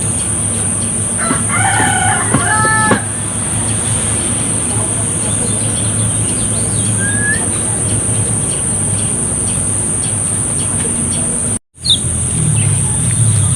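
A rooster crows once about a second in, a drawn-out call in several steps, over a steady high hiss and a low hum. A few short, rising bird chirps follow, and the sound drops out for an instant near the end.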